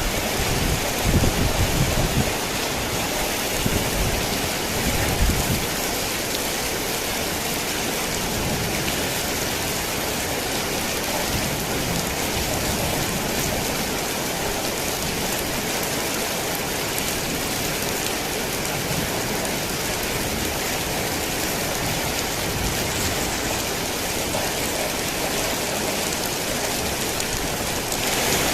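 Heavy rain falling steadily on a tin roof, with low rumbles of thunder over the first few seconds that die away. The rain grows slightly louder near the end.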